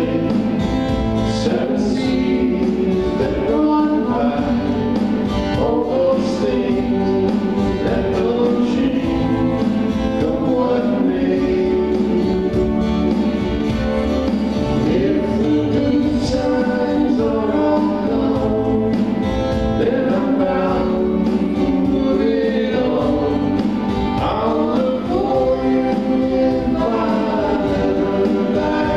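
Small live band playing a folk song, with voices singing over the accompaniment.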